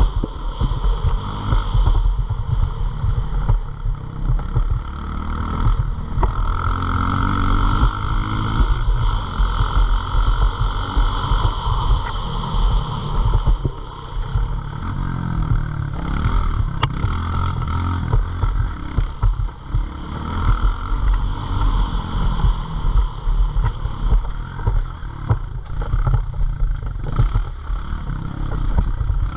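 Pit bike engine running and revving, its pitch rising and falling as the throttle opens and closes, over a heavy low rumble.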